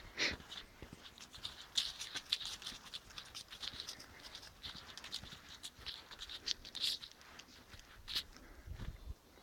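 Dry leaves and twigs on the forest floor rustling and crackling as someone moves through them, with many irregular short crackles and a soft low thud near the end.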